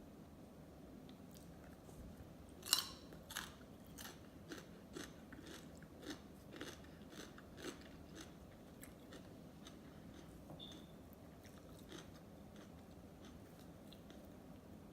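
Close-miked chewing of sushi: a sharp bite about two and a half seconds in, then a run of crunching mouth clicks about twice a second, thinning out in the second half.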